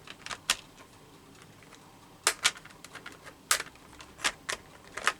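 Irregular sharp clicks and taps of plastic art supplies being picked up and handled on a work table, about eight in all, several in quick pairs.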